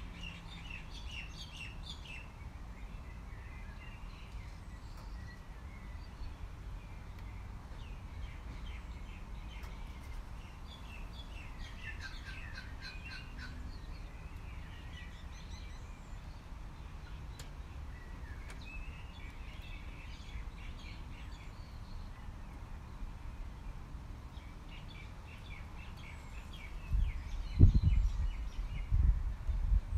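Birds singing in short chirping phrases every several seconds over a steady low rumble, with a few loud low thumps near the end.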